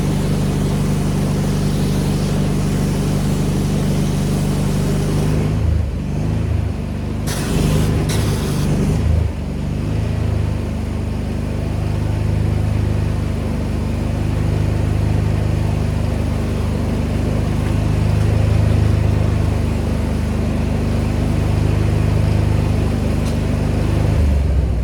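An engine running steadily with a low hum, its note shifting and unsettled for a few seconds about six to nine seconds in before evening out again.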